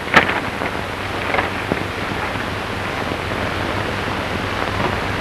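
Steady hiss of an old 1930s optical film soundtrack between lines of dialogue, with a faint click just after the start.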